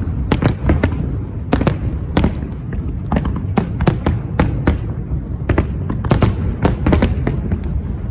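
Fireworks display: a rapid, uneven string of sharp bangs, several a second, over a continuous low rumble.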